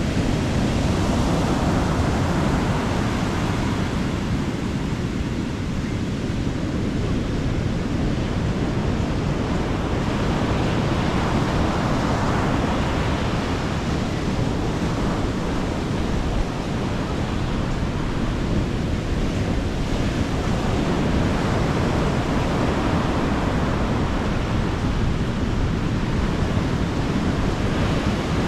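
Sea waves breaking and washing up on a beach, a steady surf with slow swells every few seconds, with wind buffeting the microphone.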